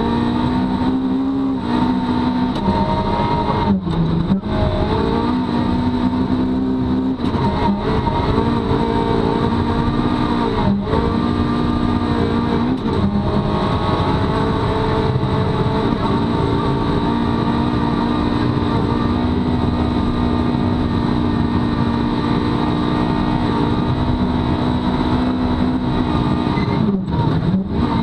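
Rally car engine at high revs, heard from inside the cabin as the car accelerates on a snowy gravel stage. The engine note holds steady for long stretches, with a few brief dips where the driver shifts or lifts.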